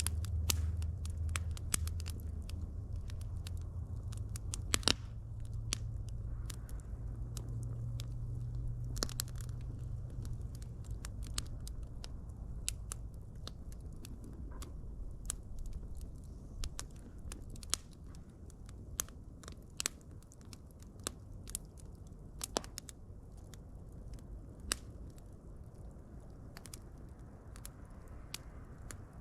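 Fire crackling: irregular sharp pops and snaps, one louder pop about five seconds in, over a low rumble of the flames that fades after the first half.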